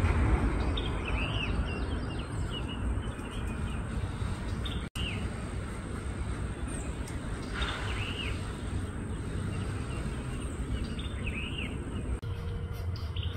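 Small birds chirping, short arched chirps repeated every second or two, over a steady low rumble of outdoor background noise.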